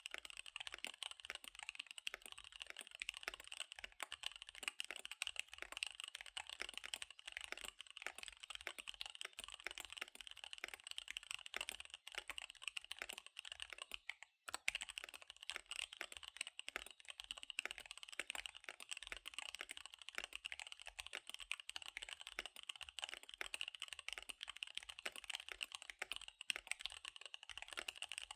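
Fast typing on a KBD75 V3 mechanical keyboard with SP-Star Dark Magic Girl tactile switches and DSA keycaps: a dense, continuous run of key clicks, with a brief pause about halfway through.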